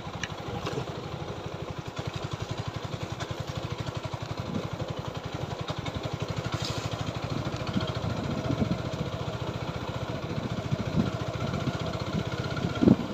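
TVS Apache 4V motorcycle's single-cylinder engine running steadily with the bike under way, with a short knock near the end.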